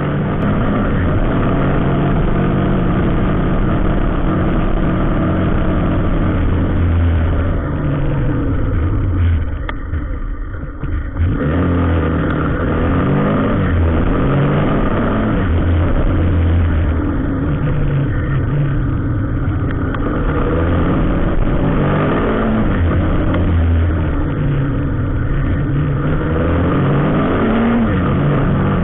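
Road vehicle engines running in traffic, revving up and down repeatedly, with a short dip in level about ten seconds in.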